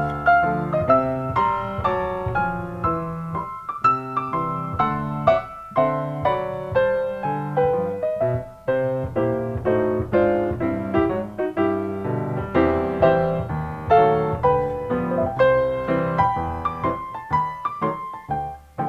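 Background piano music, a steady flow of quick notes played over a bass line.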